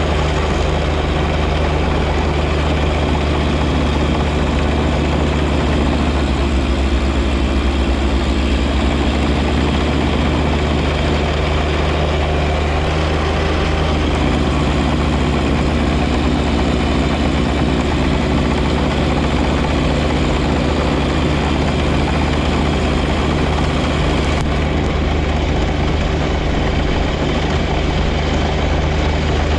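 John Deere 1025R compact tractor's three-cylinder diesel engine running steadily with its 54-inch front snowblower. The engine's tone shifts slightly about halfway through.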